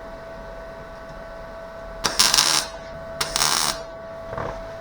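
Two short welding tacks about a second apart, each a half-second crackling buzz, over a steady hum.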